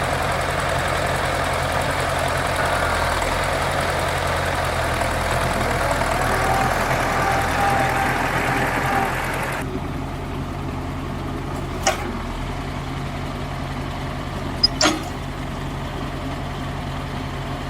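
An engine idling steadily. The higher hiss drops away abruptly about ten seconds in, and two sharp clicks follow a few seconds apart.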